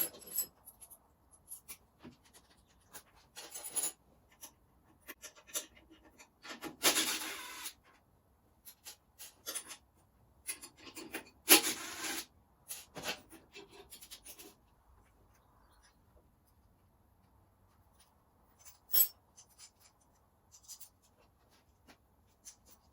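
Intermittent workshop handling noises: short clicks, scrapes and rubs of hand tools and parts being worked on while a regulator rectifier is removed. Two longer rasping rubs come about 7 and 12 seconds in.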